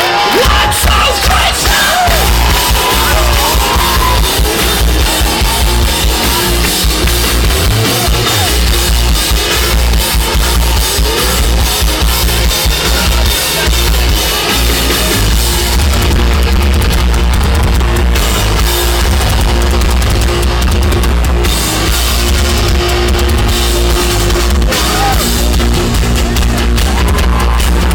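Rock band playing live at full volume, with drum kit, guitar and a heavy, steady bass.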